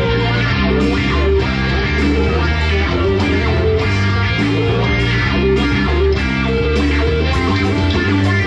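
Rock band playing an instrumental passage: electric guitar over a busy, moving bass guitar line.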